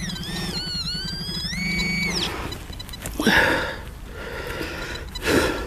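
Metal detector's continuous electronic target tone, dipping and rising in pitch as it is moved over a piece of shallow scrap, then cutting off about two seconds in. Two short scraping sounds follow.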